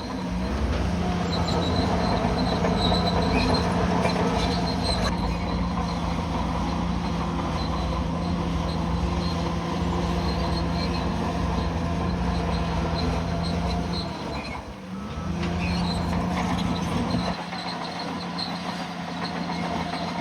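Bulldozer's diesel engine running under load with metallic track noise. The engine's pitch dips briefly near the start and again about fifteen seconds in, and the deep rumble drops away about seventeen seconds in.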